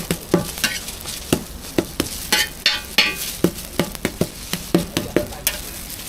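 A metal utensil knocks and scrapes on a hot cooking surface over the sizzle of frying food. The knocks are irregular, two or three a second, with a longer scraping run near the middle.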